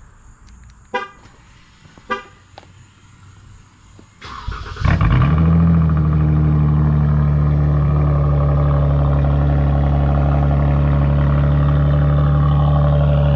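Two short car-horn chirps as the key fob is pressed, then the 2018 Dodge Charger GT's 3.6-litre V6, straight-piped with muffler and resonator deleted, cranks and catches on a cold start with a brief flare. It then settles into a loud, steady, deep-toned idle.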